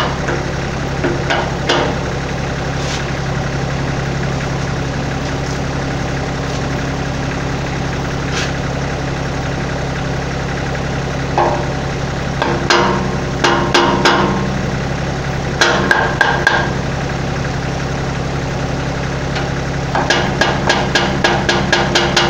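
Kioti tractor's diesel engine idling steadily, with metal-on-metal hammer taps on the bucket cylinder's pin: scattered single taps, a few short runs in the middle, and a quick run of about five taps a second near the end.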